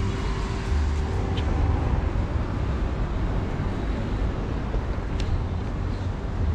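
Steady outdoor background noise with a strong low rumble and two faint clicks.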